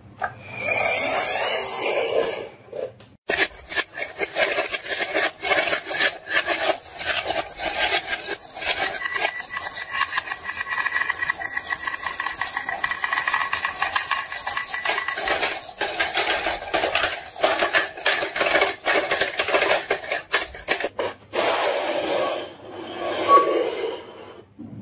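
Many marbles rolling and clattering down a wooden marble run: a dense stream of rapid clicks and knocks that starts a few seconds in and stops a few seconds before the end.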